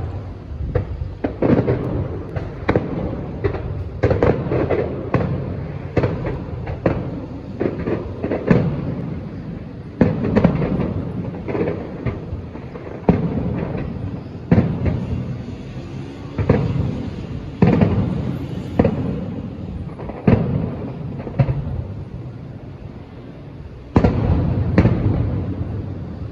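Aerial fireworks bursting in quick succession: a steady run of booms and cracks, one every half second to a second, each trailing off in a rumbling echo.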